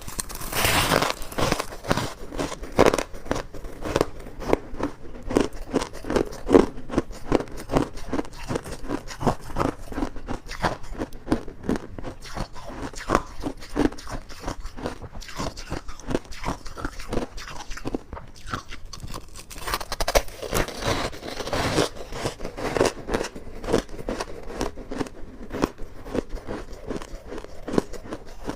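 Ice being bitten and crunched between the teeth: a continuous run of sharp cracking crunches, with heavier bites about a second in and again around twenty seconds in.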